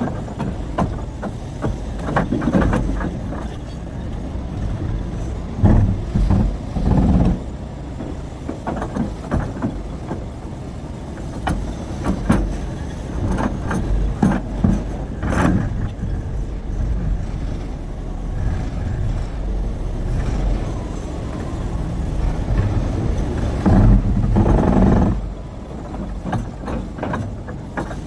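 Large hydraulic excavator working rock: a steady low engine rumble, with irregular knocks and clatter of stones as the bucket digs and loads, and several louder bangs among them.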